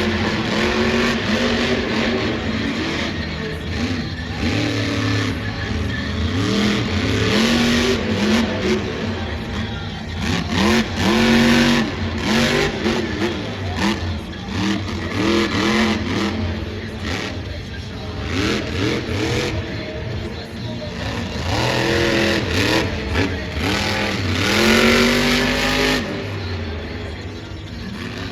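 Monster truck's supercharged, alcohol-burning engine revving hard, its pitch climbing and falling back again and again. It quietens somewhat near the end.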